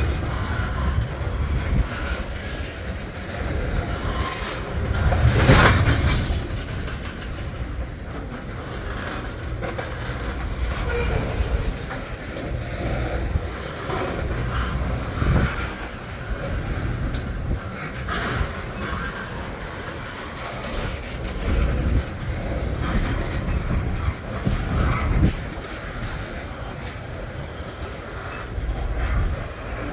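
Freight train rolling past: a steady low rumble of wheels on the rails with scattered knocks and clacks, and a louder burst about five seconds in.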